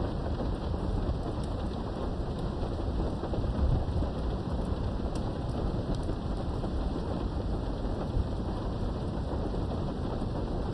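Steady rain heard from behind a window, with low rumbling thunder that swells a few seconds in. Scattered sharp drops tick against the glass.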